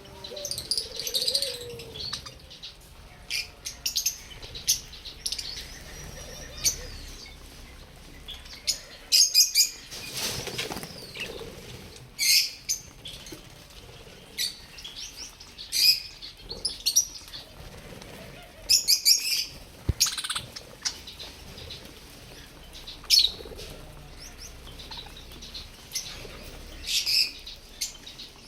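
Budgerigars chirping and chattering in short, high bursts every second or two, with wings flapping.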